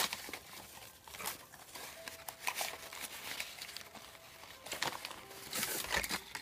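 Gift packaging being handled and torn open by hand: intermittent crinkling and rustling, busier near the end.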